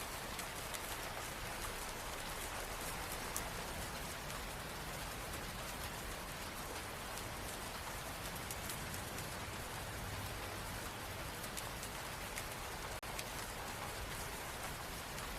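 Steady rain: an even hiss of falling rain with scattered faint drop ticks, dipping for an instant late on.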